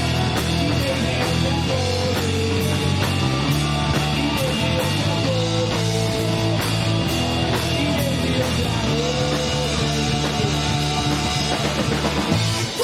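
Rock band playing live: guitars, bass and drum kit keep a steady beat under a repeating melody line, with no singing.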